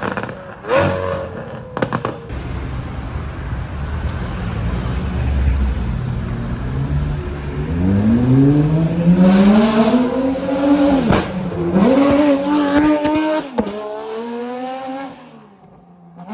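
Naturally aspirated supercar engine under hard acceleration: a low rumble, then the engine note climbs steeply about halfway through, dipping briefly twice at gear changes, before dropping away and fading near the end.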